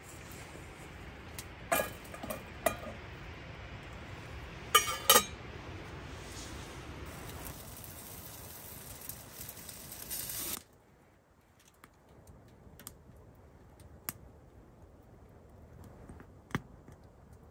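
A few sharp, ringing clinks like cookware or utensils knocking together over a steady hiss. About ten seconds in the hiss cuts off abruptly, leaving a quieter background with scattered small clicks.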